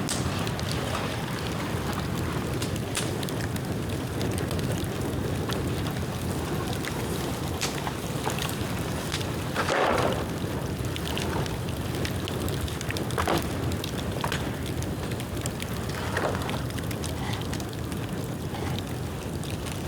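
Bonfire of dead bamboo burning with a steady low rushing noise and scattered sharp pops and crackles, the loudest pop about halfway through.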